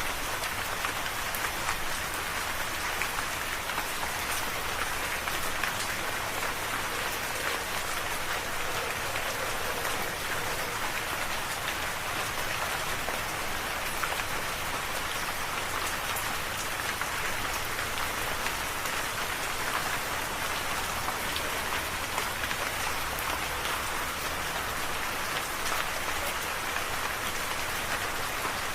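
Steady heavy rain falling, a dense even hiss with many small drop impacts.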